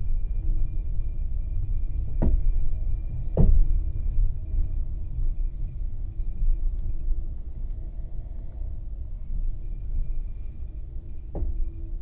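Low steady rumble of a passenger train car running on the track, heard from inside an open-berth carriage, with sharp knocks about two seconds in, again a second later and once more near the end. The rumble grows gradually quieter.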